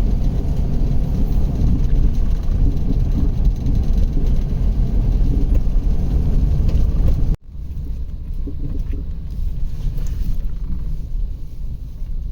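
A motor vehicle driving, a steady low rumble of engine and road noise. About seven seconds in it cuts off abruptly and picks up again as a quieter rumble.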